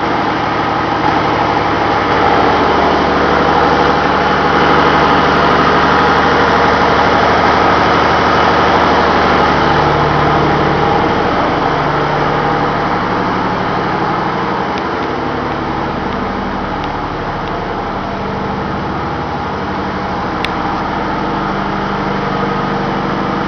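Ship's engine-room machinery running: a loud, steady engine drone with a constant hum, easing slightly about halfway through.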